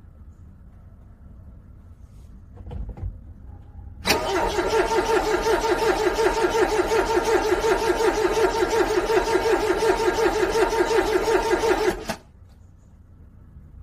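Car engine cranking on its starter in freezing cold, a fast, even pulsing for about eight seconds that stops abruptly without the engine catching: a failed cold start.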